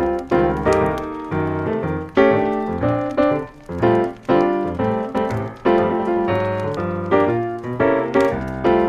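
Piano music playing chords and a melody, with the notes struck and decaying.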